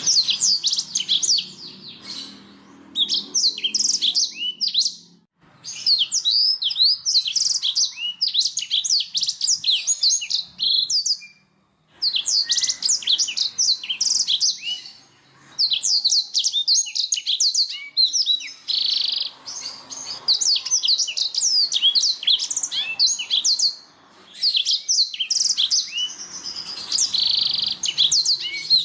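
Domestic canary singing: long, fast phrases of high chirps and trills, broken by short pauses about five, twelve, fifteen and twenty-four seconds in.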